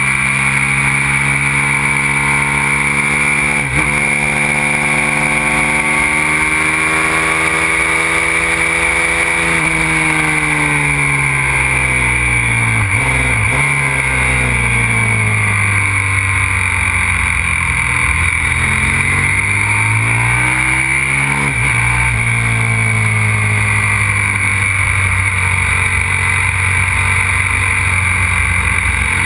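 Aprilia RXV 550 supermoto's V-twin engine being ridden hard: the engine note climbs under acceleration, drops away under braking and climbs again, with short breaks at the gear changes.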